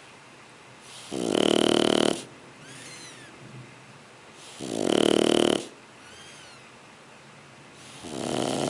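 Shar Pei puppy snoring in its sleep: three snores about three and a half seconds apart, the last one quieter.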